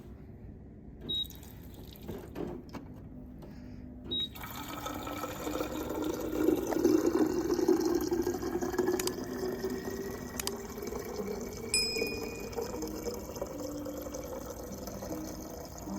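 Water running from a tap into a container, starting about four seconds in, its pitch slowly rising as the container fills, after a few light knocks.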